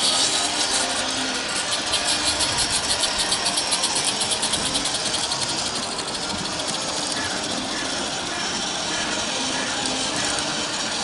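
Live-steam garden railway locomotive puffing past with rapid, even exhaust beats and hiss, fading away about six seconds in.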